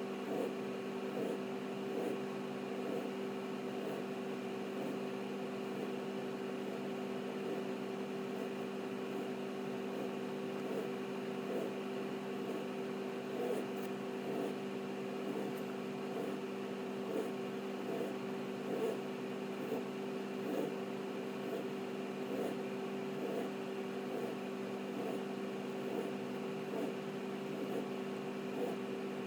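A steady machine hum with a few fixed tones, unchanging throughout, with faint soft ticks scattered over it.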